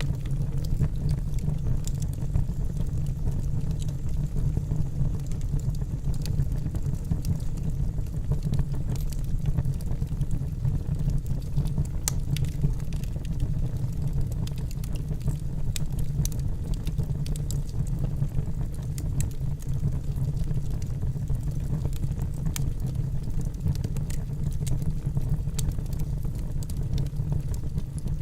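Wood fire burning in a fireplace: a steady low rumble of the flames with scattered small crackles and pops of the logs.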